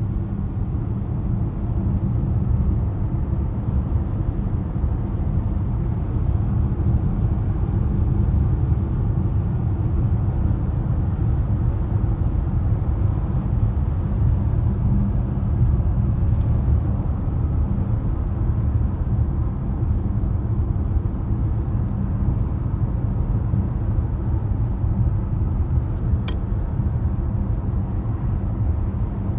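2020 BMW X5 (G05) driving at a steady cruise: a constant low rumble of engine and road noise.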